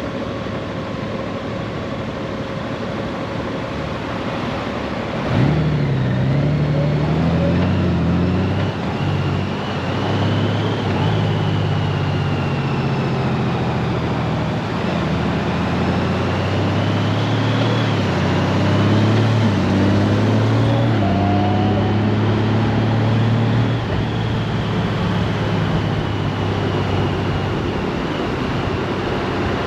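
Honda Gold Wing's flat-six engine running steadily, then pulling away hard about five seconds in. Its pitch climbs in steps as the dual-clutch gearbox shifts up by itself. It then cruises with wind and road noise, and pulls up again briefly around twenty seconds in.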